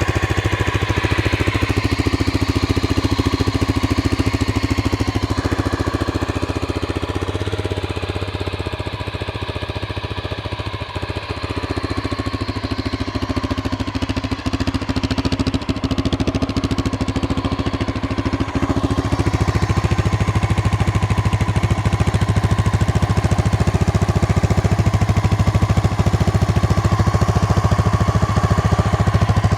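1988 Honda NX650 single-cylinder engine idling steadily on half choke while it warms up after a cold start, growing louder about two-thirds of the way through.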